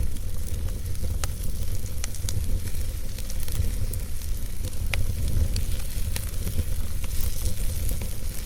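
Wood fire burning in a fireplace: a steady low rumble and hiss, with sharp crackles and pops every second or two.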